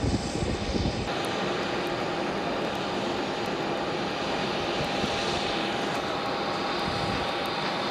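Aircraft engine running steadily: a constant whine over an even rush of noise. It follows about a second of low, gusty rumbling that changes abruptly.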